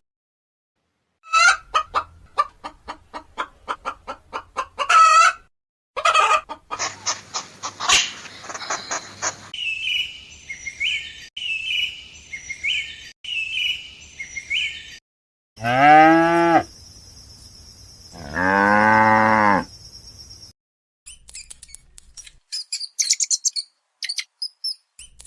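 A run of farm-animal calls: hens clucking in quick pulses, a small bird chirping in a repeated pattern, then a cow mooing twice, followed by more high bird chirps.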